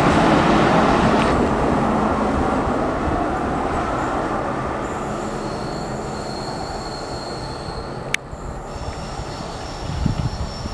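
Railway coaches rolling over the rails, the rumble fading as they pull away. Thin, high, steady wheel squeal comes in partway through as wheels grind round the curve. A single sharp click sounds about eight seconds in.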